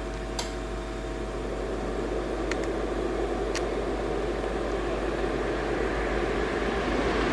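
Steady rushing noise, like a fan or air flow, growing gradually louder, over a low steady hum, with a few faint clicks.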